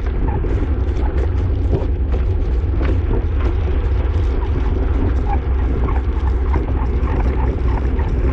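Steady wind rumble on the microphone of a racing cyclist's action camera at speed, with the hiss of tyres on a wet road.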